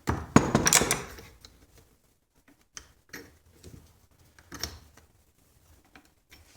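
Metal clanks and clicks of a cast vise being worked apart by hand, a dense cluster of knocks in the first second, then scattered lighter taps and clicks.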